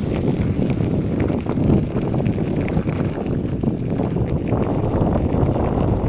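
Wind buffeting the microphone of a moving bicycle, over a steady rolling rumble, with scattered small clicks and rattles.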